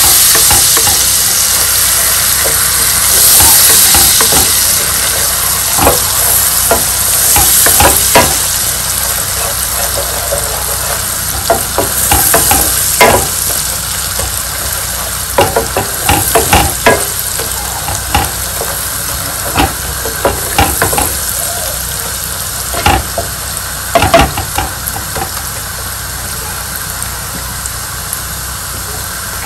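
Onion and spice masala frying in oil in a non-stick pan with a splash of hot water, sizzling steadily while a spatula stirs and scrapes it, knocking against the pan now and then. The sizzle is loudest a few seconds in and slowly dies down.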